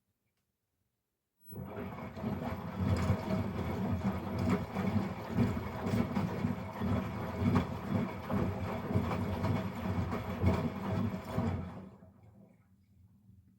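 Miele Professional PW 6065 Vario washing machine drum turning during a rinse, the wet load of stuffed toys tumbling and sloshing in the water. The turn starts suddenly about a second and a half in and runs down near the end.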